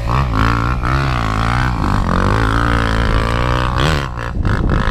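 Yamaha YZ450F single-cylinder four-stroke dirt bike engine running at idle, a steady low drone whose pitch wavers up and down with light throttle blips.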